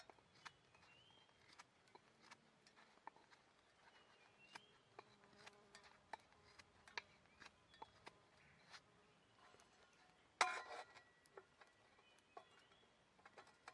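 Faint crackling of a small wood fire: scattered sharp, irregular pops, with one louder crackle about three-quarters of the way through. A few faint short rising chirps come in now and then.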